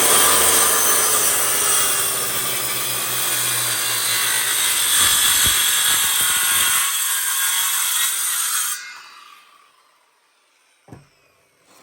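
Electric power saw running and cutting across a thick old demolition-wood beam, then switched off and winding down about nine seconds in. The beam is too thick for the blade to cut all the way through.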